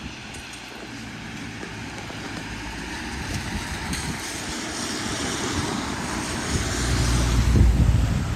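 Wind buffeting the microphone, growing stronger over the last couple of seconds, over a steady hiss of street traffic.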